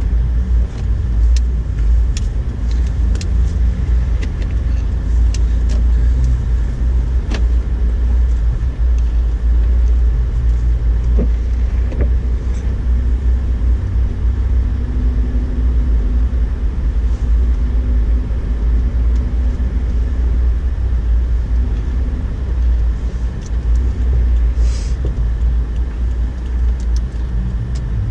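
2008 Honda Ridgeline's V6 and drivetrain with a steady, pretty loud low rumble while driving slowly through deep snow, locked in four-wheel drive in first gear. Scattered light clicks and ticks run through it.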